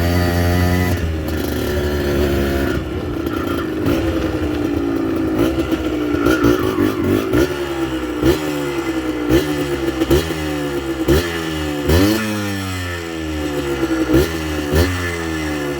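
Yamaha DT 125 two-stroke single-cylinder engine, its pitch falling as it comes off the throttle, then a run of short throttle blips about once a second before it settles again near the end.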